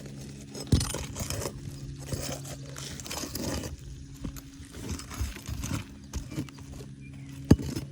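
Irregular scraping and knocking of a roof snake (shingle ripper) and hammer worked on asphalt shingles to free a shingle still held by a nail, with a sharp knock about a second in and a louder one near the end. A steady low hum runs underneath.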